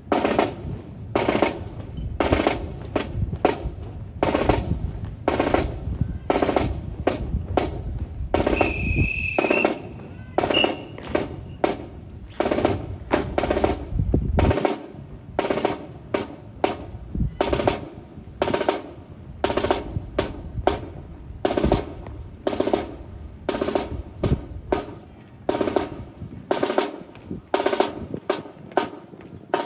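Drill team's rifles slapped and struck and boots stamping in unison, a series of sharp claps at about one to two a second.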